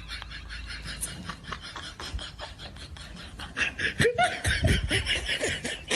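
Laughter: a rapid run of snickering, about six bursts a second, growing louder in the second half.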